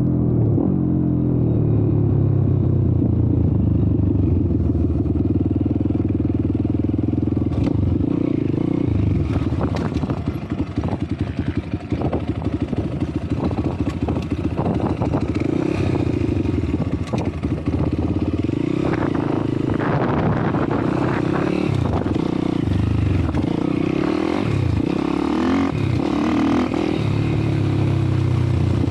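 YCF Bigy 190 MX Factory Daytona pit bike's single-cylinder four-stroke engine under way, its revs rising and falling as it is ridden. From about eight seconds in, clattering knocks come over the engine.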